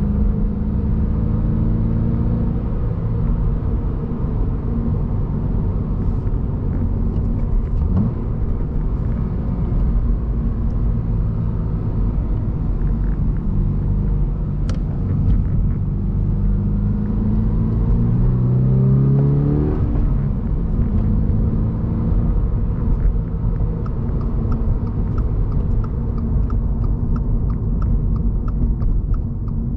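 The 2023 Subaru BRZ's 2.4-litre flat-four engine, heard from inside the cabin over steady tyre and road noise while driving. A little past halfway the engine note climbs for several seconds as the car accelerates, then drops. A faint regular ticking comes in near the end.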